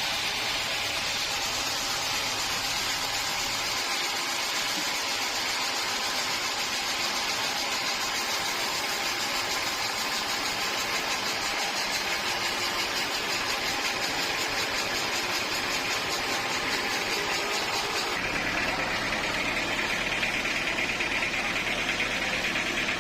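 Sawmill machinery running steadily, with a change in its sound about eighteen seconds in.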